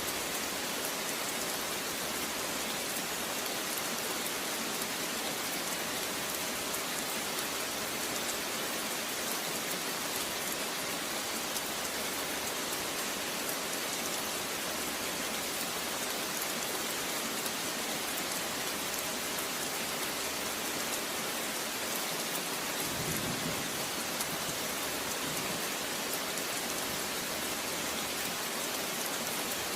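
Steady rain falling on a surface, an even, unbroken hiss of many drops.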